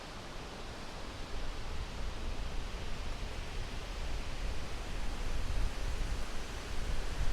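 Wind blowing through a tree's leaves, a steady rustling hiss, with gusts that come and go. From about a second in, the gusts buffet the microphone as an uneven low rumble.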